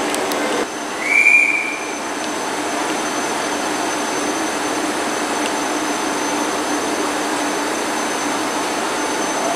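Trains standing at a station platform, giving a steady hum with a faint high whine. About a second in, a short, loud high-pitched whistle sounds once.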